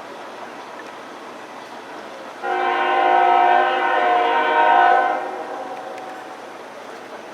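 Freight locomotive air horn sounding one long blast of about two and a half seconds, starting suddenly about two and a half seconds in and trailing off, over the steady noise of the passing train.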